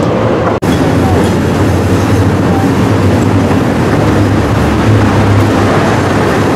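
Chicago 'L' rapid-transit train rolling past close by on the elevated steel track, a loud steady rumble of wheels on rails, broken by a brief dropout just over half a second in.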